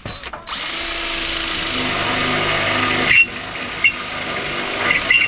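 Electric drill boring out spot welds in the steel body panel of a Mk2 Ford Fiesta. A short burst comes first, then a steady run that eases off a little about three seconds in, with a few short high squeaks from the bit.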